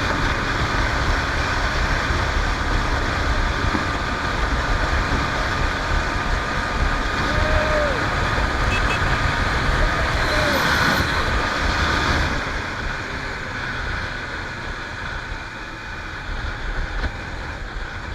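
Honda Tornado 250 single-cylinder motorcycle running at speed with steady engine and road noise, easing off and getting quieter about twelve seconds in.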